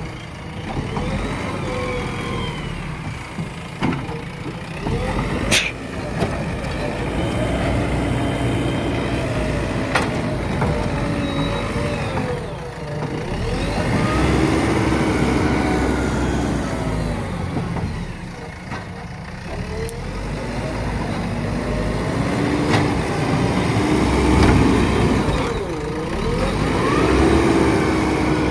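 A JCB backhoe loader's diesel engine working, its pitch repeatedly rising and falling as it revs under load. A few sharp knocks cut through, the strongest about six seconds in.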